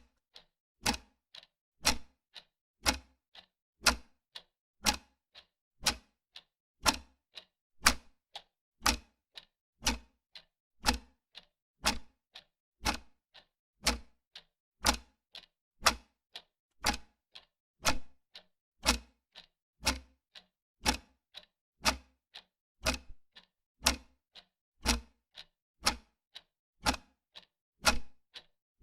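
Clock ticking steadily, about two ticks a second, alternating a louder and a softer tick.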